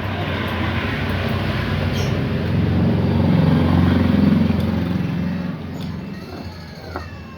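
A motor vehicle passing by: a rumbling engine sound that grows louder, peaks about halfway through, then fades away.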